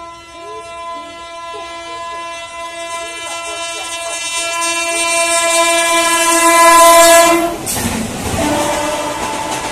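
An Indian Railways locomotive horn held in one long, steady blast that grows louder as the train approaches, then cuts off sharply; the train then rushes past with wheels clattering on the rails.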